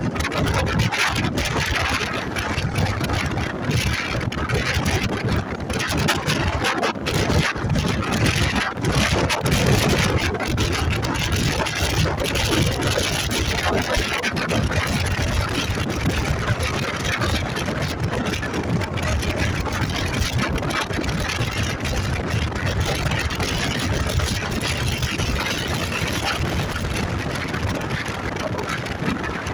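Motorcycle engine running while riding, with wind rushing and buffeting over the microphone.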